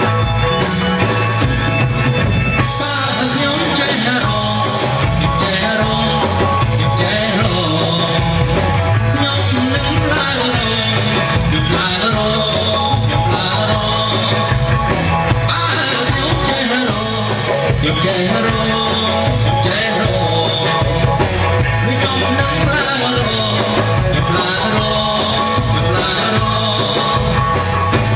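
Rock-style band music with drums and bass keeping a steady beat, and a voice singing a song over it from about two and a half seconds in.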